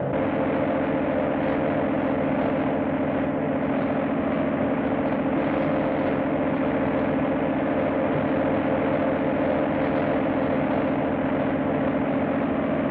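A vehicle engine running steadily, a constant-pitch drone that sets in at the start and holds without change.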